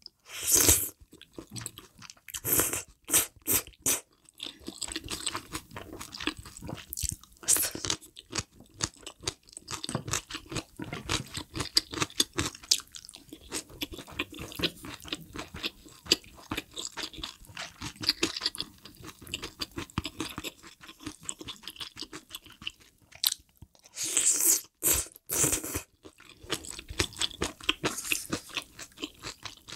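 Close-miked mouth sounds of eating spicy hot pot (malatang and malaxiangguo): wet chewing and crunching of the vegetables and meat, with louder slurps and bites as food comes off the spoon, about half a second in, between two and four seconds, and again between twenty-four and twenty-six seconds.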